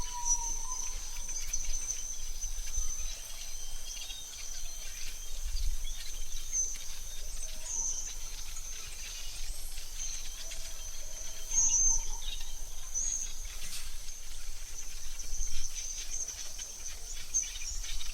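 AI-generated forest ambience: a steady high insect buzz with short bird chirps scattered through it, over a faint low rumble.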